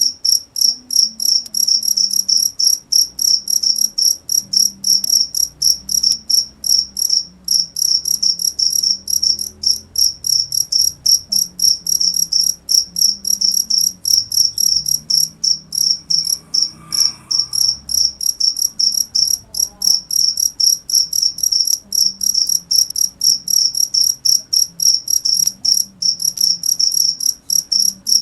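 Cricket chirping: loud, high-pitched, even chirps repeating several times a second without a break.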